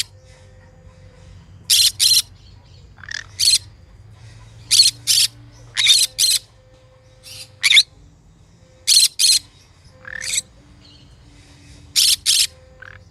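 Green conure squawking: short, loud, shrill calls, mostly in quick pairs, repeated about every second or two.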